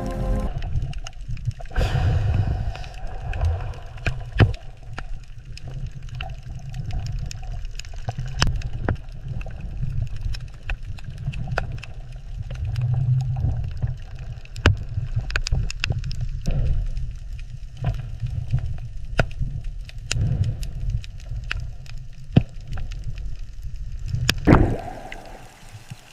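Underwater ambience: a steady low rumble of moving water with gurgling and many scattered sharp clicks and crackles.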